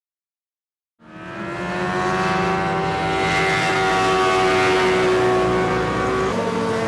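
A racing vehicle's engine running at steady high revs. It fades in from silence about a second in, its pitch sags slightly, then shifts near the end.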